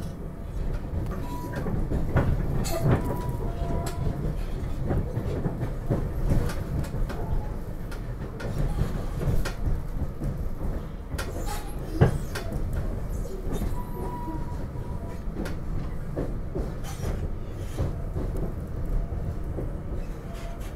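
SEPTA Regional Rail electric train under way, heard from inside the passenger car: a steady low rumble from the running gear, with wheels clicking over rail joints and one sharp knock about twelve seconds in.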